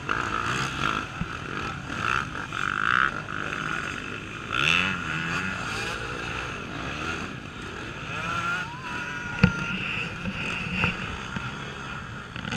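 Cross-country dirt bike engines revving up and dropping back as riders work over logs, with a rising rev near the middle and a sharp knock about nine and a half seconds in.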